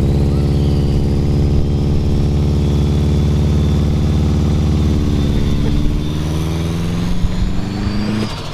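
Turbocharged Subaru WRX STI flat-four engine held at steady high revs on launch control. Near the end the pitch climbs a little, then the revs drop away.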